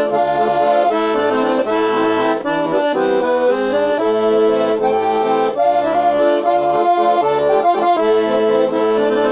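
Bayan (Russian button accordion) playing an instrumental break: a melody over sustained chords, with short bass notes underneath.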